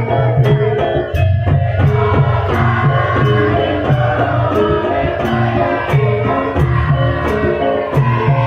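Live Javanese gamelan music: ringing metallophone tones over a hand-drum pattern, with a steady beat of sharp metallic strikes.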